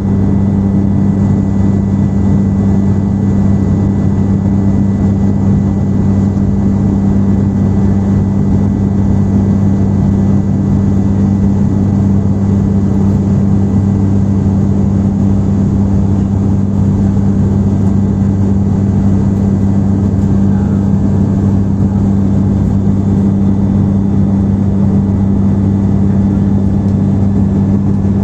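Airliner cabin noise in flight: the engines' steady low drone with a fainter high whine over the rush of air, heard from inside the cabin.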